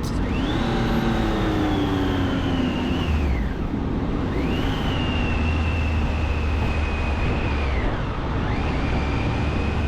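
Triumph Tiger 800's three-cylinder engine pulling through traffic, its whine climbing sharply three times as the throttle opens, holding, then dropping away as it closes, over a steady low wind and road rumble.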